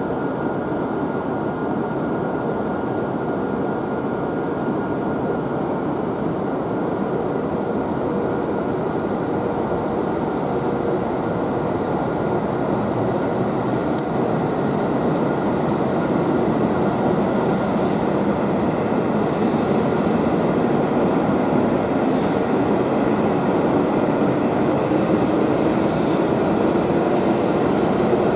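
E7-series Shinkansen train pulling out of the platform and accelerating past: a steady rumble of running gear and motors that grows gradually louder over the second half.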